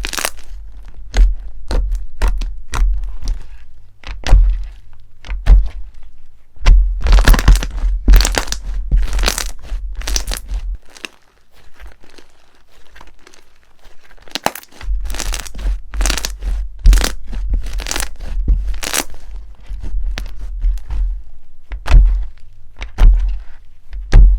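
Crunchy slime being pressed and squeezed by hand: a run of sharp, irregular cracks and crunches, with a quieter stretch about halfway through.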